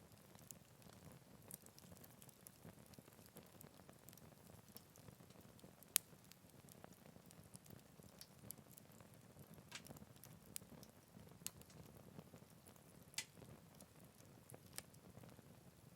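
Wood campfire burning softly with a faint low rumble and scattered sharp crackles and pops, the loudest about six seconds in.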